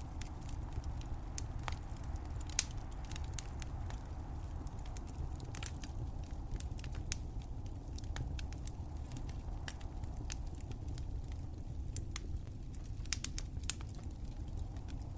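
A fire crackling: irregular sharp pops and snaps over a steady low rumble, with a louder pop about two and a half seconds in and a quick cluster of pops near the end.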